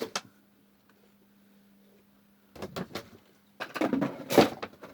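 Handling noises from a bag and bucket being searched: a click, a few knocks, then a loud burst of rustling and clattering near the end. A faint steady hum runs underneath.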